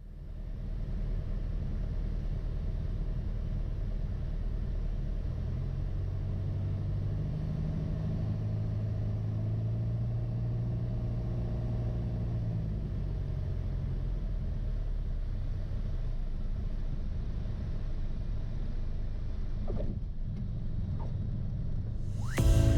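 Piper PA28 light aircraft's piston engine and propeller running steadily at low power while taxiing after landing. A deeper engine note swells up about six seconds in and fades again about seven seconds later.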